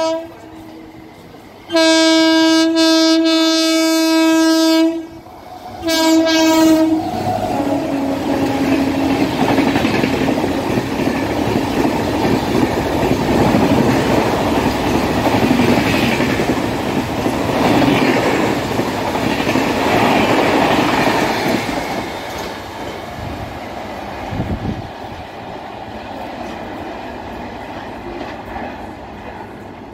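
Indian Railways express train (12342 Agnibina Express) sounding its locomotive horn: a short toot at the start, a long blast about two seconds in and a shorter one around six seconds. The train then runs through at speed, with a loud rush and the clatter of its LHB coaches over the rail joints, fading over the last several seconds.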